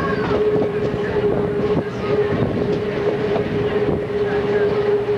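Passenger train rolling along the track, heard from aboard a car: a steady rumble and rattle of wheels on rail, with a steady ringing tone over it.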